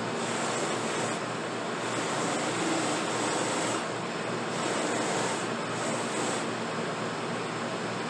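A steady rushing noise with no clear tone, its upper hiss brightening and fading several times.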